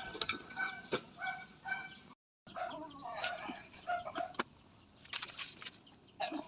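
Chickens clucking in a run of short repeated calls, mixed with scattered sharp clicks and knocks. The sound drops out completely for a moment a little after two seconds in.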